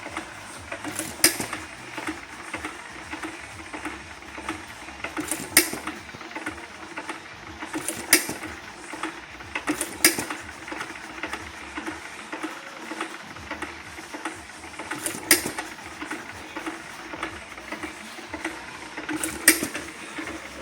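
John Deere 1½ hp single-cylinder hit-and-miss gasoline engine running at idle: a steady light mechanical clatter, with a sharp firing bang every few seconds at irregular gaps as the governor lets it fire only when it slows, coasting through the misses between.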